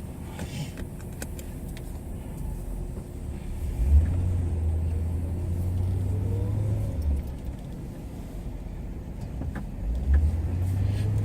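Car running, with a low rumble that comes up suddenly about four seconds in and again near the end, each time followed by a faint rising whine as it picks up speed.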